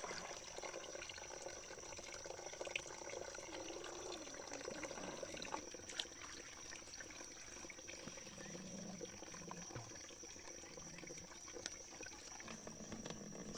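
Faint trickling and pouring water with a few small clicks, under a steady high-pitched tone.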